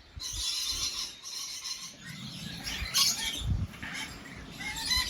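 Aviary birds chirping and calling in short notes, over a few low knocks.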